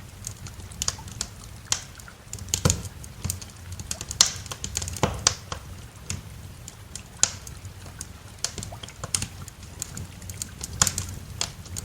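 Wood fire in a fireplace crackling, with irregular sharp pops and snaps several times a second over a low steady rumble.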